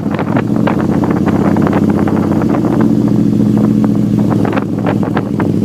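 Can-Am Spyder SE5 three-wheeled motorcycle engine running steadily while under way, with many short clicks over it.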